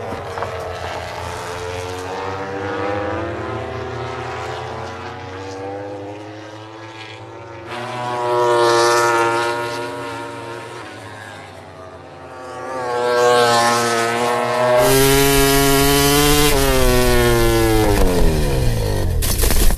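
Racing motorcycle engines at high revs, their pitch rising and falling as the bikes accelerate and pass. It gets louder about two-thirds of the way through, and near the end there is a long falling pitch as a bike goes by.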